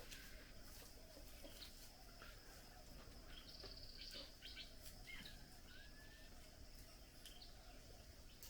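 Faint forest ambience: scattered distant bird chirps and a short whistled bird call about five seconds in, over a steady high-pitched insect drone.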